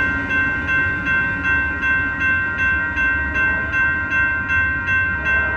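A railway warning bell ringing in a steady, even rhythm, a little under two strokes a second, over the low rumble of the passing train.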